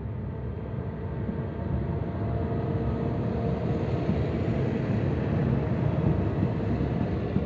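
A single diesel railcar running along the line, a low rumble of engine and wheels that grows steadily louder as it approaches.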